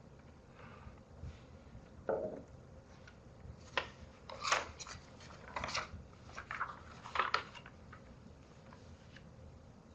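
Faint room tone with a soft knock about two seconds in, then a run of short clicks and rustles close to the microphone until about seven and a half seconds in.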